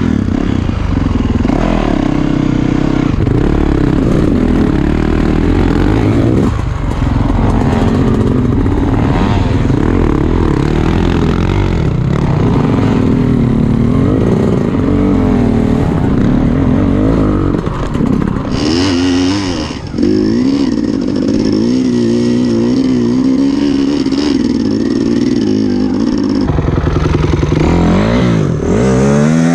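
Dirt bike engines running hard off-road, their pitch rising and falling with the throttle. Near the end one revs up sharply.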